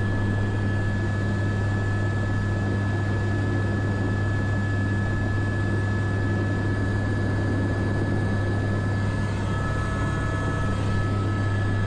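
Airbus AS350 B3 (H125) helicopter's single turboshaft engine and rotors running steadily, heard from inside the cockpit as a constant deep hum with a thin steady high whine over it.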